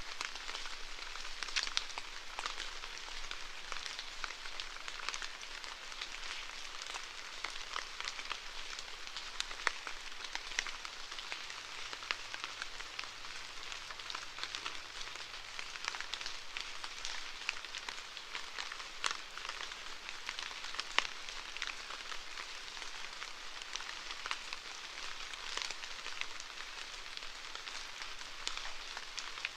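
Steady rainfall: an even hiss of falling rain, with many small drop ticks standing out from it.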